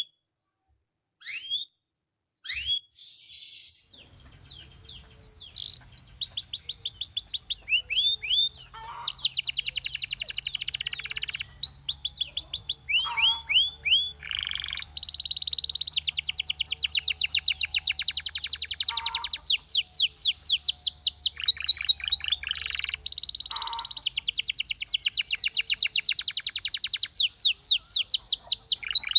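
Belgian canary singing: a few short chirps at first, then from about four seconds a continuous song of fast trills and rapid runs of repeated notes.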